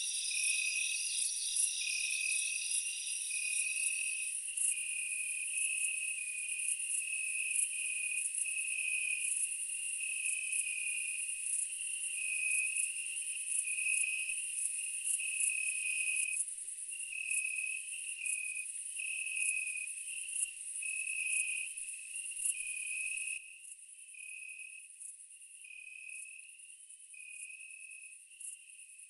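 Insects chirping in steady, rhythmic pulsed trills, several at different pitches at once. The mix changes abruptly twice: one higher layer drops out about four seconds in, and the whole sound becomes quieter about three-quarters of the way through.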